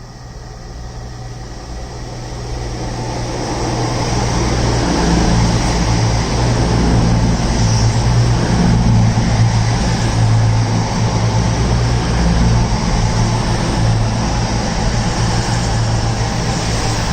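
Passenger train approaching, growing louder over the first few seconds, then running past steadily with a low hum and a wide rumble of wheels on rails.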